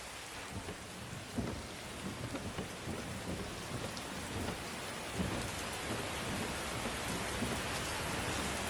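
Steady rain falling, with low rolling thunder rumbling in from about a second and a half in and continuing underneath.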